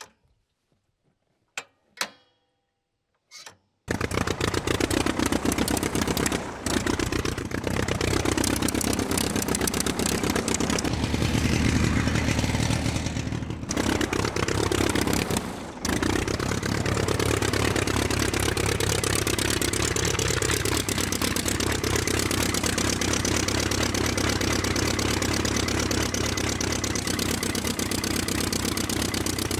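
A small engine on a homemade mini tractor starts up sharply about four seconds in and runs loud and steady, its speed rising and falling, with two brief drops in level around the middle.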